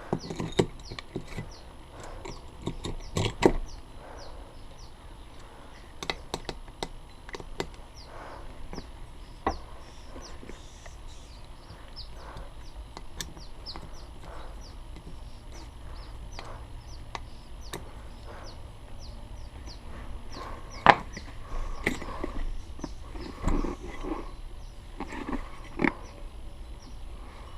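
Irregular clicks and knocks of tools and small parts being handled during hands-on work, the loudest a sharp knock about 21 seconds in. A faint high chirp repeats about twice a second underneath.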